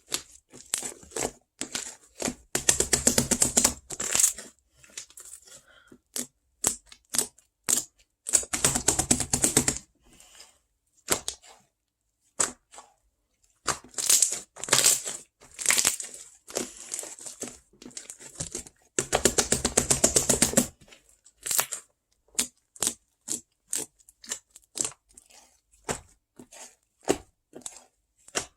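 Close-up crinkling and tearing of handled material, coming in bursts of a second or two with short scratchy clicks between them and brief pauses.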